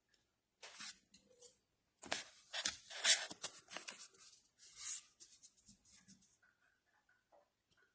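Tearing and crinkling, in several irregular rips over about four seconds.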